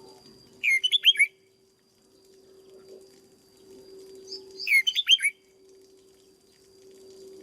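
Red-whiskered bulbul singing: two short phrases of quick, clear whistled notes, about a second in and again about four and a half seconds in, over a faint steady hum.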